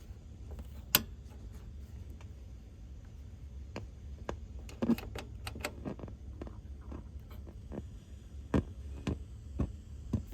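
Steady low hum with a dozen or so sharp clicks and knocks scattered through it, the loudest about a second in and several bunched together around the middle.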